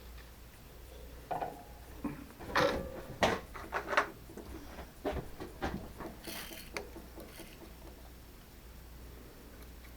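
Irregular clicks and knocks of metal tools and machine parts being handled and adjusted, over a low steady hum; most of the knocks fall in the first half, then it settles to the hum.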